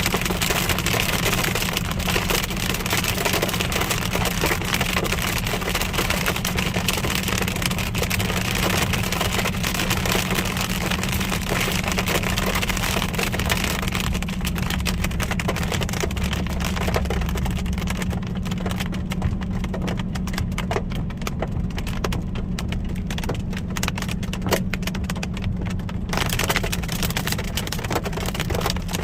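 Hail and rain hitting a car's roof and windshield, a dense patter of small impacts over the steady low hum of the car on the road. The hits grow sparser about halfway through and pick up again near the end.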